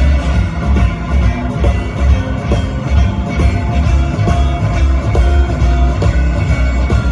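Live blues band playing an instrumental passage: guitar over bass with a steady beat.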